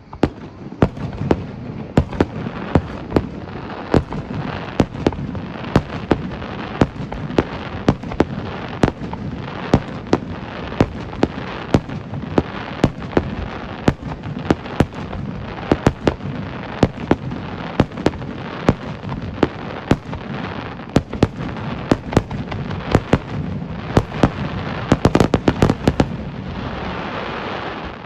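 Fireworks display: shells going off in a steady run of sharp bangs, two or three a second, over continuous noise, with a dense rapid barrage of bangs about 25 seconds in.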